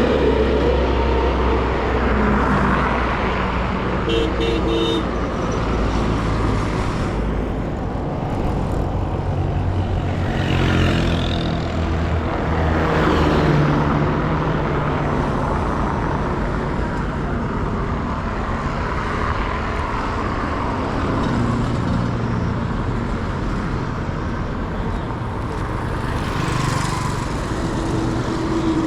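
Busy street traffic: a steady low rumble of engines with vehicles passing by, and a brief vehicle horn toot about four seconds in.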